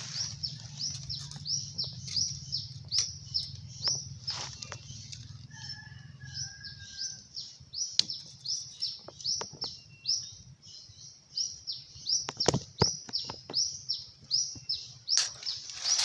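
A bird calls a steady series of short, high, downward-sliding chirps, about two or three a second. Dry leaves and twigs crackle and snap underfoot.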